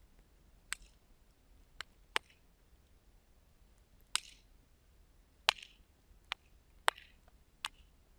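Wood fire crackling: about eight sharp, irregular pops from the burning wood, some with a brief hiss, over a faint steady background.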